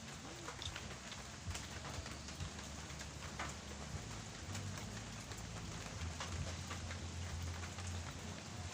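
Steady rain falling on a surface: an even hiss with scattered sharp ticks.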